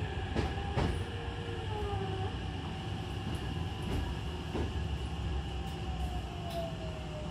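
Hankyu commuter train heard from inside the car while running slowly through a station, with a steady low rumble, a few sharp clacks from the wheels over rail joints, and a thin tone sliding gently down in pitch as the train slows.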